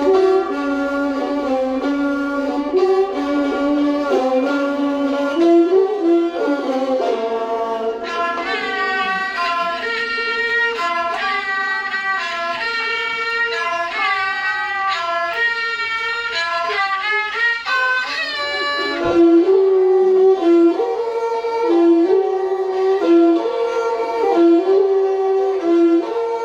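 Thai classical overture (homrong) played on bowed string instruments, with a melody moving over several pitched lines. A higher, busier passage fills the middle, and a lower repeating figure returns near the end.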